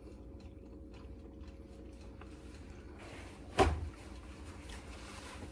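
A person chewing food with closed lips: soft, faint mouth clicks, with one short, louder mouth or throat sound about three and a half seconds in.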